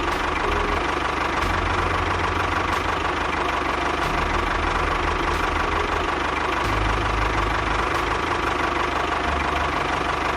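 Small engine running steadily, with a low rumble that shifts now and then and faint clicks throughout.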